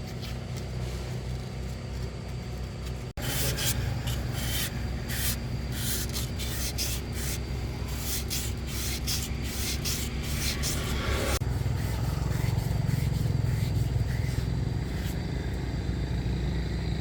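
Metal-on-metal scraping and clicking of hand work on starter motor parts, over a steady low mechanical hum. The scraping runs in the middle section; the hum is plainer at the start and the end.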